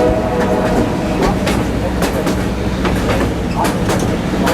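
Railway passenger car rolling along the track: a steady low rumble with irregular sharp clicks of the wheels over the rails.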